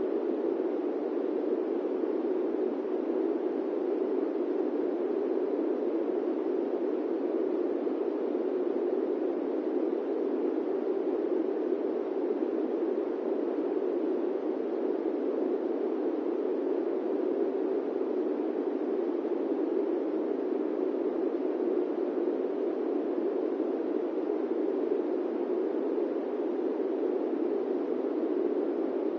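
Steady airplane-cabin white noise: an even, unchanging rush concentrated in the low-middle range, with no distinct events.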